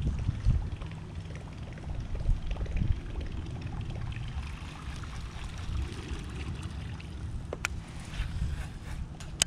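Water sloshing and trickling around a fishing kayak, under a low uneven rumble, with one sharp click about three-quarters of the way through.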